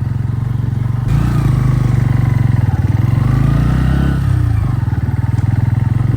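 Motorcycle engine running while riding. About a second in it gets louder and its pitch shifts up and down as the bike speeds up, then it settles back to a steady drone.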